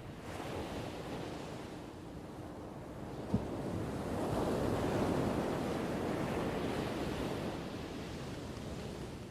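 Ocean surf: a wave washes in, its rush building from about four seconds in and slowly fading, with wind on the microphone. A brief sharp knock a little over three seconds in.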